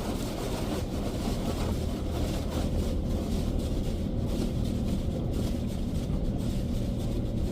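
Nu-Star Super Comet touchless car wash heard from inside the car: water spraying steadily against the car over a constant low machine hum.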